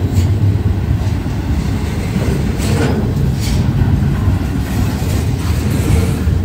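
Freight train rolling along the track: a steady low rumble with a couple of sharp clicks from the wheels about three seconds in.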